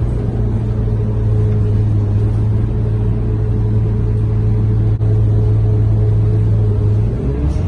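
Scania K230UB bus's five-cylinder diesel engine heard from inside the passenger cabin, running with a steady low drone. Near the end the drone falls away and a rising note begins.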